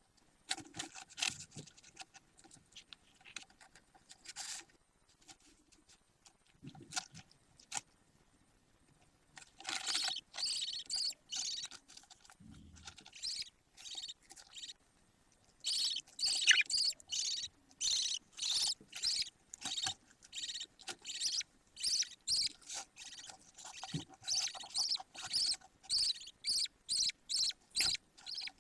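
Budgerigar chicks calling with short, repeated high chirps, coming in a quick run of about two a second in the second half. This follows a few seconds of faint scattered scuffling.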